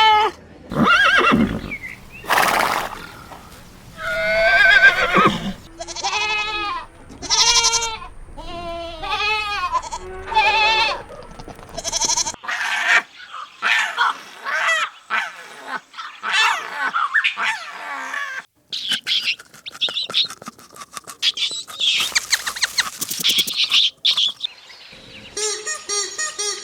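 A series of farm animal calls: wavering, quavering bleats one after another through the first half, then noisier, scratchier animal sounds, and a quick run of short chirps near the end.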